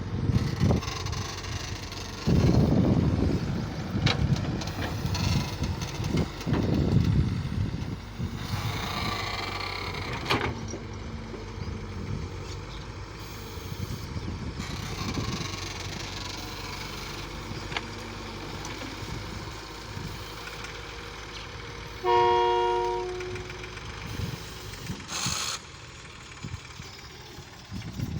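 Tractor engines running and passing, with uneven low rumble that swells and fades. About two-thirds of the way through, a horn sounds once for about a second.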